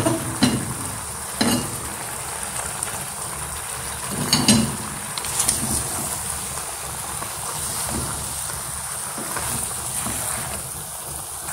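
Chicken and bottle gourd pieces sizzling in hot oil in a pan, a steady frying hiss, with a few knocks and scrapes as the mixture is stirred.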